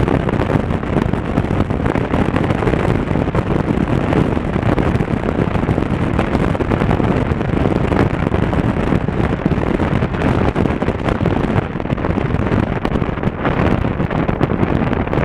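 Steady wind rush on the microphone of a camera riding on a moving Honda Africa Twin CRF1000L motorcycle, with engine and road noise blended in underneath.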